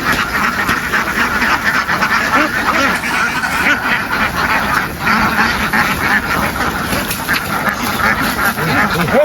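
A large flock of ducks quacking all at once, a dense, unbroken din of overlapping calls.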